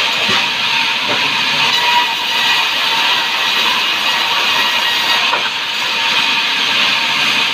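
Sawmill saw cutting through timber: a loud, steady, bright rushing noise with a faint steady whine under it.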